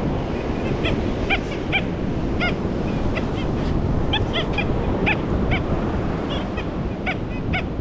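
Metal detectors giving short chirping target tones, one to several a second at uneven intervals, as the search coils sweep over a buried target. Behind them is steady wind and surf noise.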